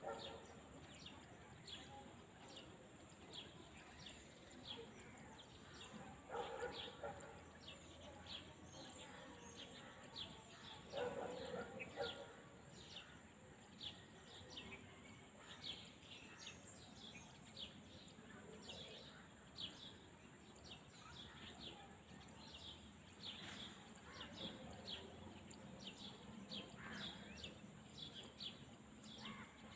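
Faint field ambience with small birds chirping over and over throughout. Two louder, lower sounds come about six and eleven seconds in.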